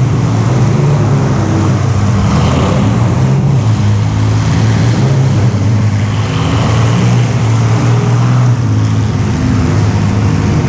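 Vehicle engine running loud and steady, with a noisy rush over it.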